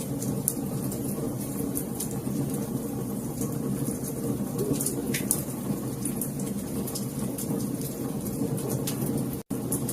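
Wood fire crackling, with scattered sharp pops and snaps over a steady low rumble of the flames. The sound cuts out for a split second near the end.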